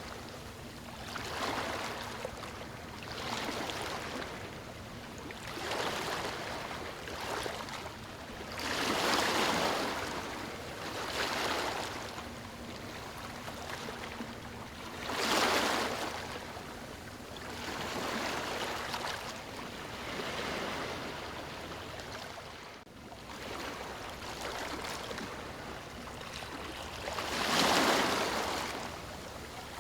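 Water rushing and splashing in repeated surges that swell and fade every few seconds, the strongest about a third of the way in, half way through and near the end.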